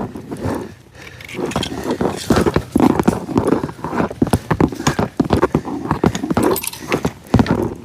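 A person breathing hard and panting while walking, with footsteps and fishing gear rattling and clicking along the way.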